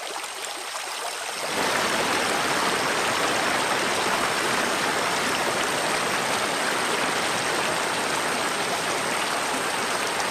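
Water running in a stream, a steady rushing that grows louder about a second and a half in.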